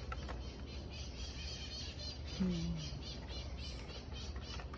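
Birds chirping steadily in the background, a rapid string of high chirps several times a second, with a short low hummed "mm" from a person about halfway through.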